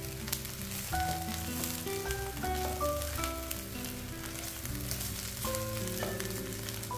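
Dried anchovies and tempeh frying in a little oil in a wok, a steady sizzle, with a spatula stirring and scraping across the pan. Background music with a melody over a bass line plays along.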